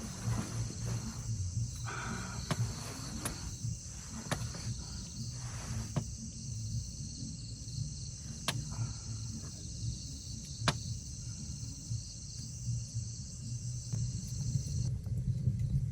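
Insects chirring steadily in a high, even band over a low rumble, with scattered sharp clicks; the chirring stops near the end.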